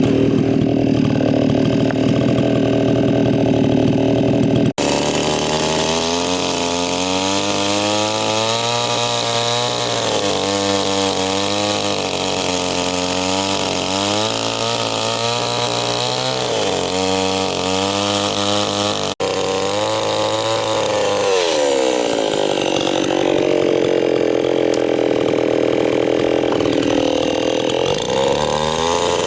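Chainsaw running and cutting wood, its engine pitch rising and falling as it bites into the wood and frees up. It breaks off abruptly twice, about five and nineteen seconds in.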